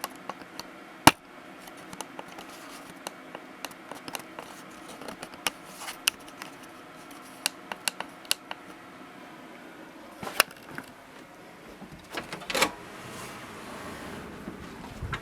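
Scattered sharp clicks and taps at irregular intervals, with one louder click about a second in and a short cluster near the end, over a steady room hum.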